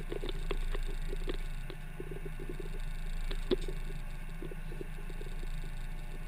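Hot hatch race car engine idling with a steady low rumble, heard from inside the cockpit, with irregular light clicks and rattles from the cabin over it and a slightly louder click about three and a half seconds in.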